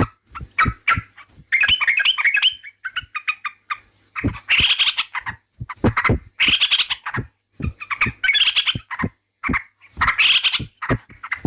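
Yellow-vented bulbul (trucukan) singing loud, bubbly chattering phrases, each under a second long, repeated about every two seconds.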